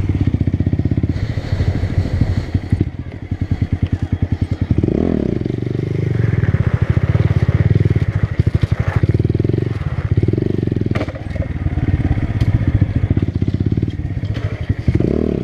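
Motorcycle engine running hard, revving up and dropping back several times, with a clear rev rise about five seconds in and again near the end.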